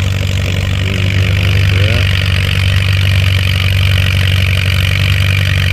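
Antique Allis-Chalmers WD-chassis pulling tractor's engine running steadily under load on a pull, without missing, and getting a little louder about two seconds in.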